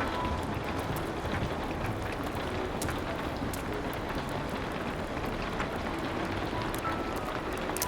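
Steady rain falling, with the scattered small pops and crackles of a wood fire.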